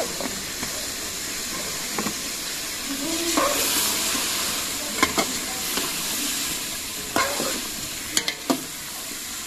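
Meat and spices frying with a steady sizzle in a large aluminium pot while a steel ladle stirs them, clinking and scraping against the pot several times.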